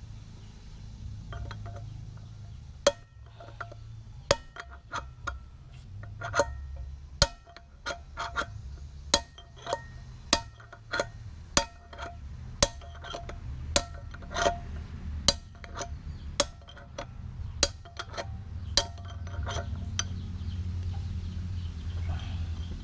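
Hammer striking a metal drift to knock the worn hub bearing out of a motorcycle wheel hub: a long run of sharp metallic blows, roughly two a second, each with a short ringing tone.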